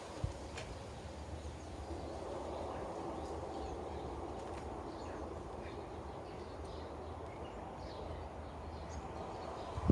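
Sparrows chirping faintly now and then over a steady low background noise, with a single sharp tick about a quarter of a second in.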